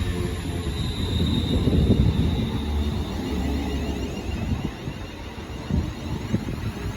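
A pair of Class 350 electric multiple units pulling into the platform and slowing: a steady low rumble of wheels and motors that eases off, with a brief high brake squeal about a second in.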